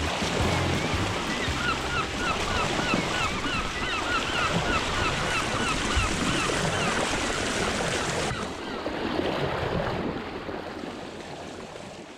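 Sea waves washing, with some wind on the microphone. A bird chirps quickly and repeatedly for several seconds in the middle, and the sound fades away near the end.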